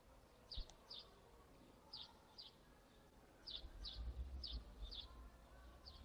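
A small bird chirping faintly and repeatedly, in short high chirps that come mostly in pairs. A low rumble comes in about halfway through.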